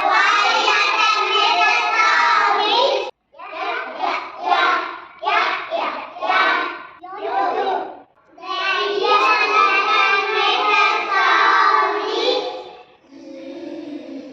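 Young children chanting phonics sounds in a sing-song way: a long held phrase, then a string of short separate syllables, then another long phrase.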